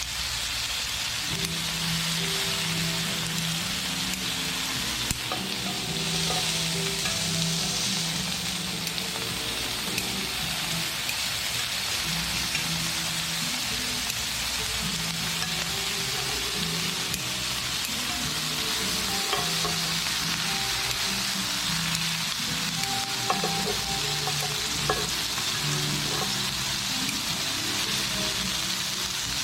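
Thick slabs of black pork neck sizzling on a hot griddle plate with vegetables: a steady frying sizzle, with a few sharper pops about two-thirds of the way through.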